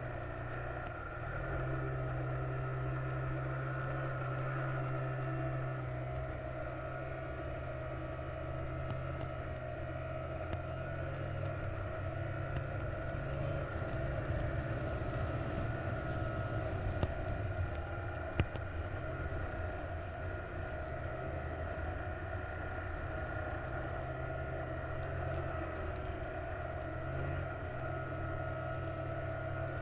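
A vehicle travelling at a steady speed: a steady engine drone over road noise, with a few light ticks and one sharp click about eighteen seconds in.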